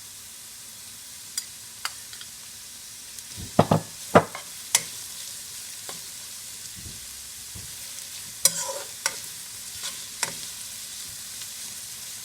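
Chopped vegetables sizzling in hot oil in a wok, with a steady hiss. A utensil knocks and scrapes against the pan in two spells of stirring.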